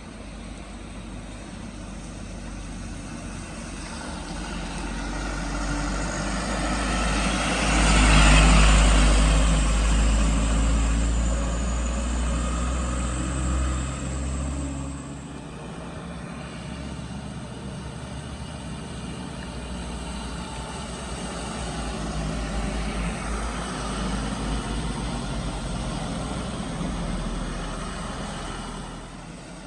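Heavy vehicle engines working under load as vehicles pass close by on the bend. It is loudest about eight seconds in and fades out by about fifteen seconds, then another vehicle passes more quietly near the end.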